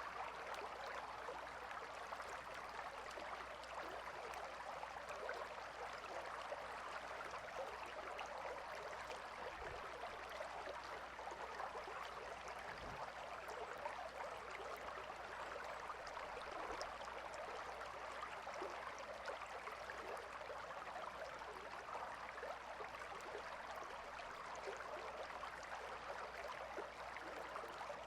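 A river flowing and burbling over rocks: a steady, even rush of water.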